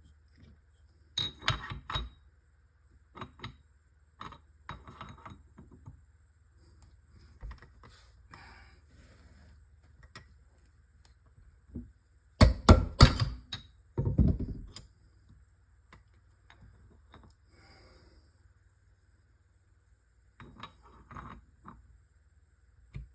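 Metal transmission parts being handled and fitted together: scattered clinks and knocks, with a burst of several loud knocks about halfway through.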